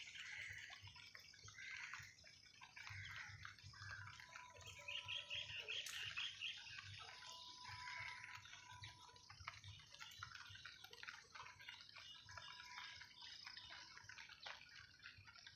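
Faint morning outdoor ambience of small birds chirping and calling, with a quick trill of repeated notes about five seconds in.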